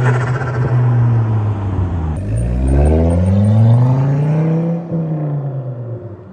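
Stage 3 tuned Volvo S40 T5's turbocharged five-cylinder engine running loud through its exhaust. The pitch dips about two seconds in, climbs steadily as it accelerates, then falls away near the end.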